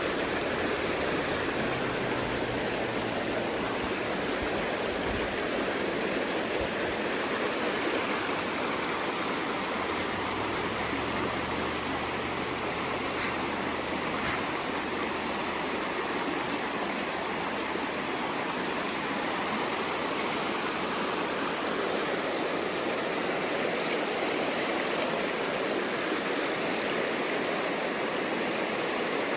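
A small mountain creek rushing steadily over rocks, a continuous even wash of water.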